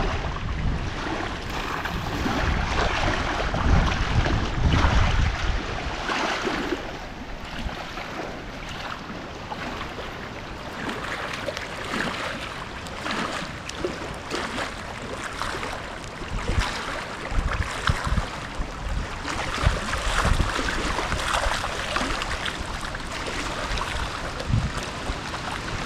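Wind gusting through the forest, with gusts buffeting the microphone as low rumbles near the start and again in the second half.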